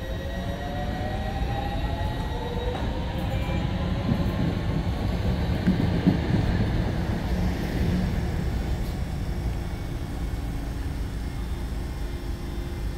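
Electric multiple-unit passenger train pulling away, its traction motors giving a whine that rises in pitch over the first few seconds and then fades, over a steady low rumble of wheels on rail.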